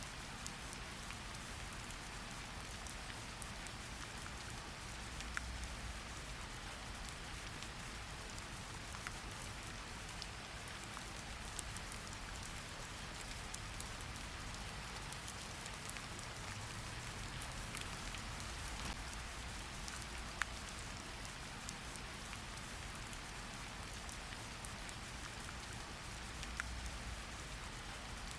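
Steady rain falling, an even hiss with a low rumble beneath it, and now and then a single louder drop ticking sharply.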